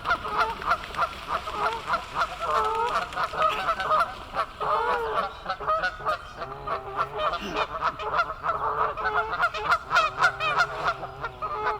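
A flock of geese honking continuously, many short overlapping calls close together.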